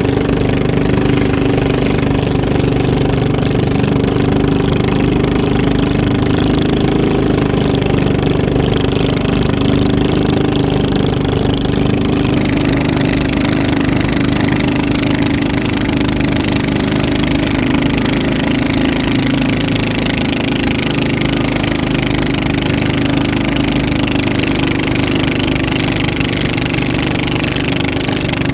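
Racing motorboat engines running steadily and loudly, holding a constant pitch.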